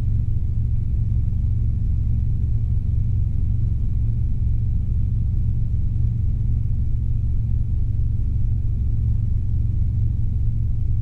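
Robinson R22 helicopter in flight: a steady low rumble of its four-cylinder Lycoming piston engine and rotor, unchanging throughout.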